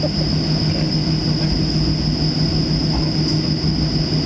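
Cabin noise inside a Boeing 737-700 on the ground before takeoff: its CFM56 jet engines running at low power, giving a steady low rumble, a hum and a constant high-pitched whine.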